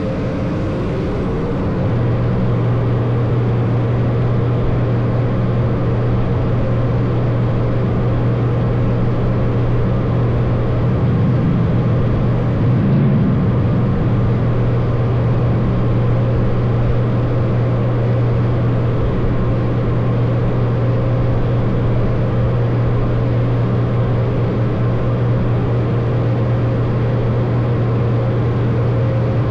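Automatic car wash machinery running: a loud, steady mechanical drone with a low hum that steps up about two seconds in and then holds.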